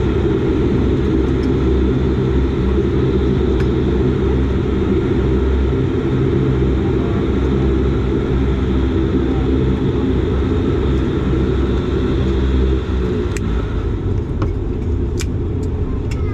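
Dash 8 Q400's Pratt & Whitney PW150A turboprop engines running at low power while the aircraft taxis after landing: a steady drone made of several low, even tones. About two-thirds of the way in the drone eases slightly and changes pitch, and a few sharp clicks follow near the end.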